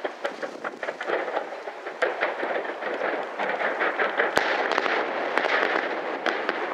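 Fireworks display: a dense crackling of many rapid small pops and bursts, with one sharp bang about four seconds in.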